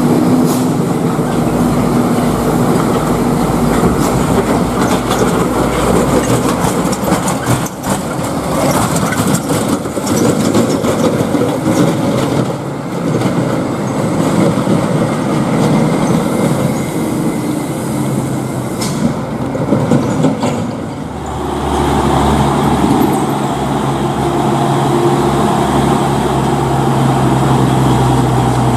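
Heavily loaded tronton trucks' diesel engines running under load as they pass. About two-thirds of the way in, a nearer truck's engine takes over with a deeper, steadier drone.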